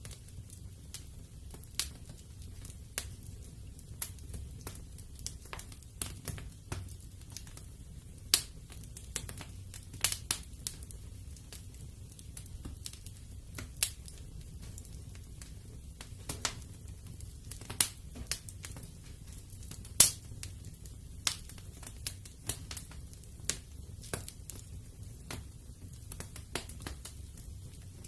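Wood fire burning in a fireplace, crackling with irregular sharp pops over a faint, steady low background; the loudest pop comes about twenty seconds in.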